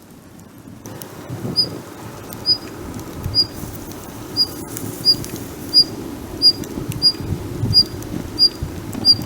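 A small bird repeating a short, high single-note chirp about every 0.7 s, starting about a second in, over a low crackling, rustling noise.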